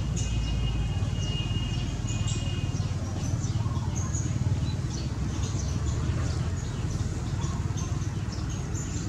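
Small birds chirping repeatedly over a steady low rumble. A thin, high, steady tone runs underneath and stops about three seconds in.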